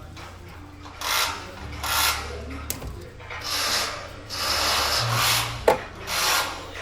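Repeated rubbing or scraping strokes, about one a second, with a single sharp click near the end.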